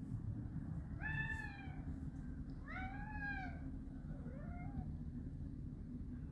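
A hungry house cat meowing for food: two drawn-out meows about a second and a half apart, then a fainter short one, over a steady low hum.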